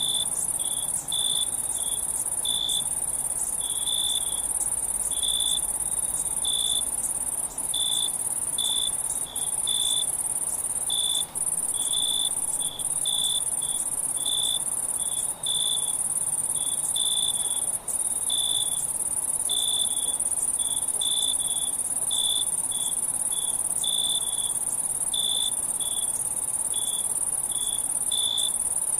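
Insects calling: a continuous high-pitched trill with a lower chirp repeating irregularly, a little over once a second. The trill breaks off briefly every few seconds.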